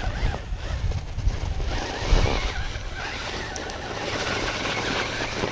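Radio-controlled rock crawler climbing a steep rocky bank: its electric motor running and its tyres scrabbling over rock and gravel, with wind rumbling on the microphone.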